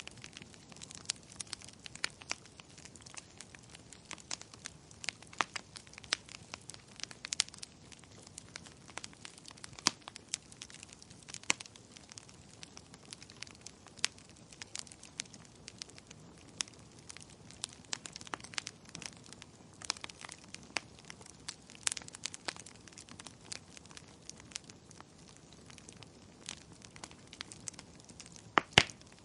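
Wood fire crackling in a fireplace: irregular snaps and pops over a soft steady hiss, with one louder pop near the end.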